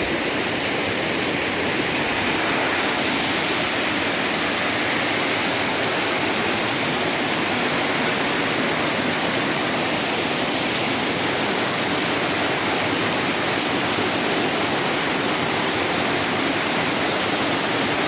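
Waterfall pouring steadily, a dense even rush of falling water heard close up.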